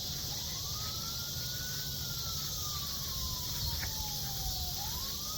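Siren wailing: a single tone rises slowly, falls away over a couple of seconds, and starts rising again near the end. Under it runs a steady chorus of cicadas.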